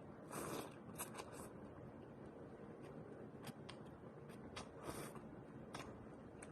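Quiet eating sounds from a bowl of instant noodles: a few light clicks of a utensil and two short hissing sounds, one near the start and one about five seconds in.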